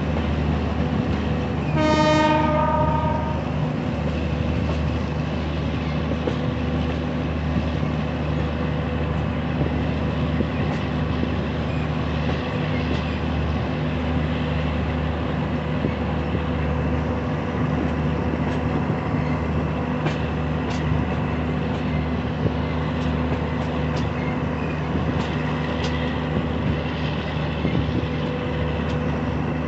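Moving passenger train heard from its coach: a steady rumble and hum of the coaches running on the rails. A single train horn blast sounds about two seconds in and lasts over a second, and faint clicks of wheels over rail joints come through later on.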